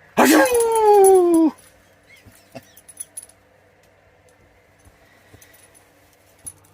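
A dog's single drawn-out cry, about a second long, sliding down in pitch, followed by a few faint clicks.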